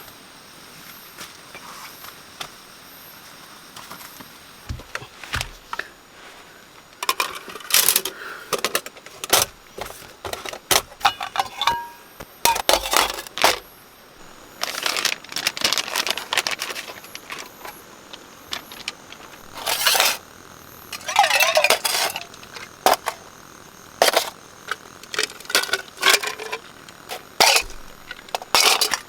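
Small metal objects clinking and clattering as they are handled, in irregular bursts with short metallic rings, like camp cookware and utensils being moved about.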